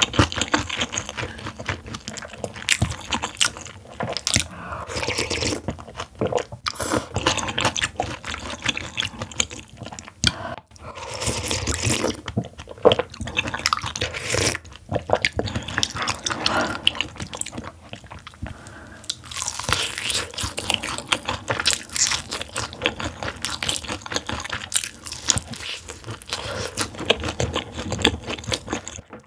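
Close-miked crunching and chewing of crispy sauce-coated fried chicken, a dense run of crackles with short pauses between bites.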